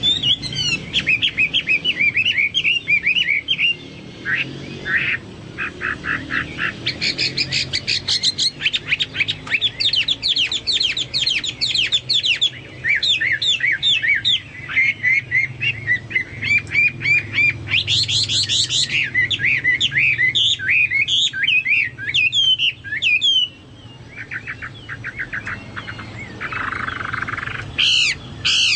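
Chinese hwamei singing continuously: a varied run of rapid trills, sweeping whistled notes and chirp series with only brief pauses, in a song likened to that of the cucak Papua or cucak mas.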